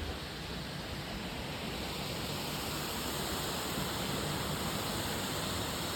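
Waterfall: a steady rush of falling water, an even, unbroken noise.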